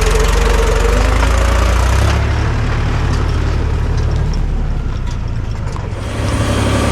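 Diesel tractor engine running loud while the tractor works a backhoe loader attachment. About two seconds in the engine sound eases, and it picks up again near the end.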